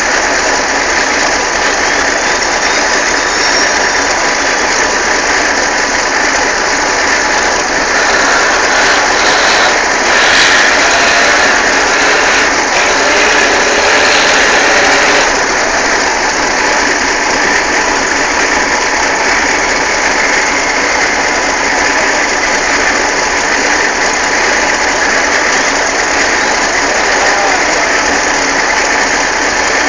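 Truck engine running steadily, a little louder for a few seconds about a third of the way through.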